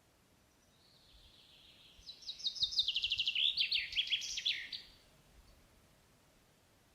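A songbird singing one song phrase: a fast run of repeated high notes that steps down in pitch, ending a little after the middle.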